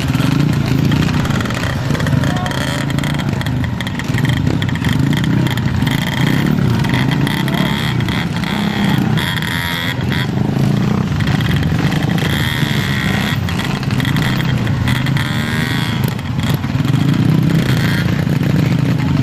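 Dirt bike engines running continuously, fairly loud and steady.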